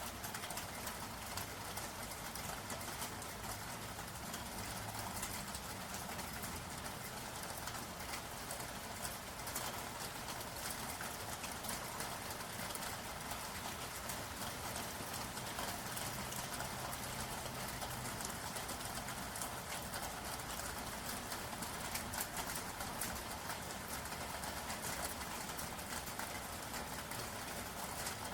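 Steady rainfall with many individual drops ticking, and a dove cooing faintly a couple of times in the background.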